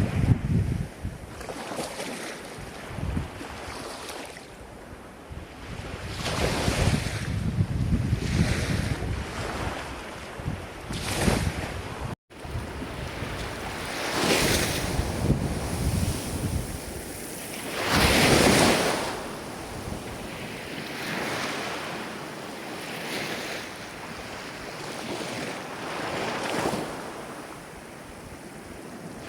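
Ocean waves breaking and washing in, swelling and fading every few seconds, with wind buffeting the microphone. The biggest wave breaks about two-thirds of the way through, and the sound drops out for an instant a little before halfway.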